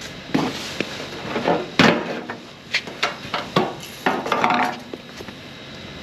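A series of irregular knocks and clanks, one about four and a half seconds in with a brief ringing tone.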